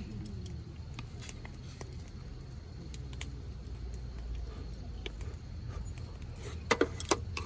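Light clicks and taps scattered over a low steady rumble, with a quick run of four or five louder clicks near the end.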